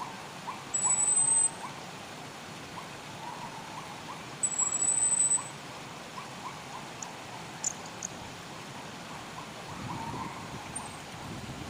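Wild birds calling over a steady hiss of running water: two very high, thin whistled notes about a second long stand out near the start and the middle. Lower down, many short rising chirps repeat irregularly throughout.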